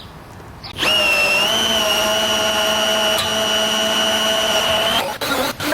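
Handheld power tool, a drill or driver, spinning at a steady speed with an even whine. It starts about a second in and runs for about four seconds before stopping, then briefly restarts near the end.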